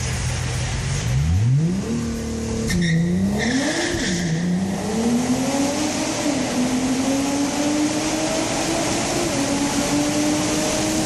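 Nissan GT-R R35's twin-turbo V6 through a Fujitsubo Super Ti titanium exhaust, heard from inside the cabin with the windows half down: it revs up hard, drops sharply at two quick upshifts about three and four seconds in, then pulls again and settles into a steady, slowly rising drone.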